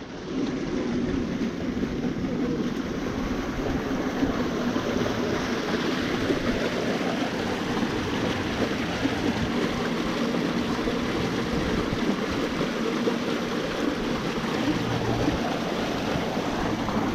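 Steady rush of flowing water at a water park, with a faint low hum underneath.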